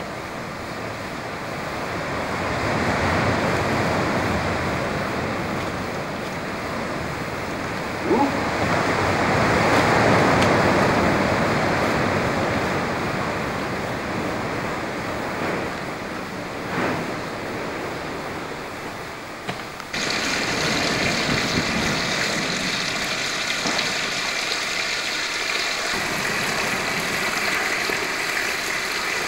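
Storm wind gusting through an abandoned building, a rushing noise that swells and ebbs. A sharp knock comes about a quarter of the way in and another a little past halfway, and about two-thirds through the sound changes abruptly to a steadier, higher hiss.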